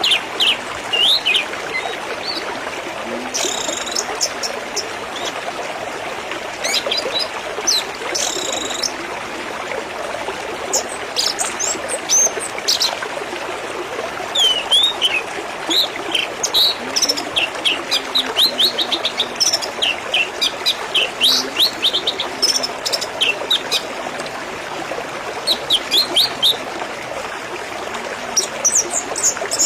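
Birds chirping repeatedly, at times in quick runs of short notes, over a steady trickle of running water.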